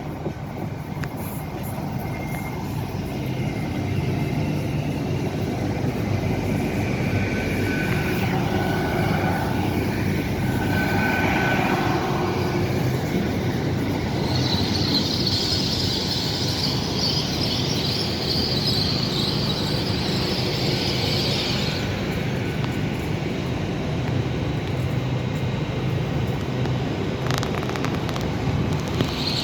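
Train at a station, its low rumble steady throughout. A high squeal comes in about halfway through, lasts roughly eight seconds, and starts again at the very end.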